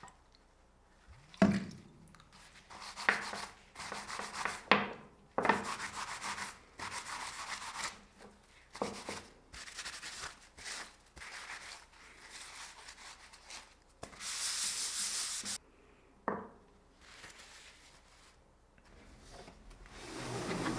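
Hand rubbing strokes on a workpiece, irregular and each about half a second to a second long, like sanding or deburring, with sharp knocks about a second and a half in, near five seconds and around sixteen seconds. About fourteen seconds in comes one steady hiss lasting about a second and a half.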